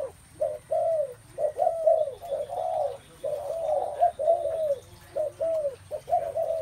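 Spotted doves cooing, one low coo phrase after another with hardly a break.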